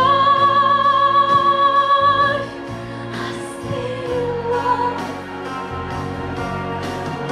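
A woman's sung voice holds a long note with vibrato for about two and a half seconds over backing music. The accompaniment then plays on, a little quieter, without the voice.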